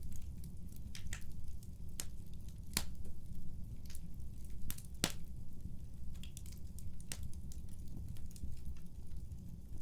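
Wood fire burning in a fireplace: a steady low rumble of flames with sharp, irregular crackles and pops from the burning wood, the loudest about three and five seconds in.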